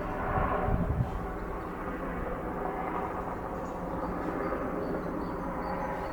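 Steady low outdoor rumble with a few soft thumps in the first second. Faint short high chirps of small birds come and go over it.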